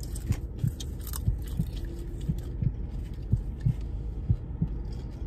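People chewing dill pickle popcorn close to the microphone: soft low thumps about three times a second with faint crackles, over a low steady hum.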